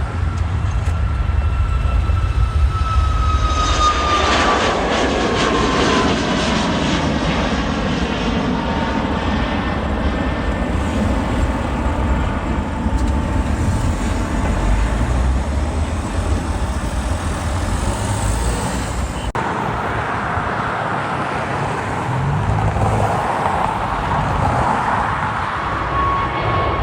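Jet airliner passing close by: a steady engine rush with a whine that falls in pitch over the first several seconds, loudest about three to four seconds in.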